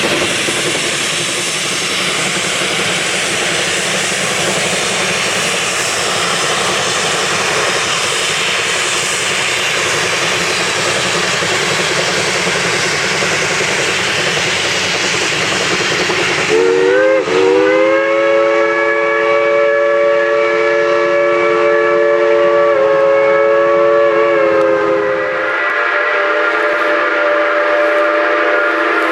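A geared steam logging locomotive working, with a loud steady rushing of steam and exhaust. About two-thirds of the way through, its multi-chime steam whistle opens into a long held chord blast, and the chord shifts a few seconds before the end.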